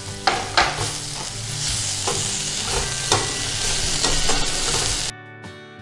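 Sliced onions, dried red chillies and curry leaves sizzling in oil in a steel kadai while a metal slotted spoon stirs and scrapes through them, with a few sharp clinks of the spoon against the pan. The sizzle cuts off suddenly about five seconds in.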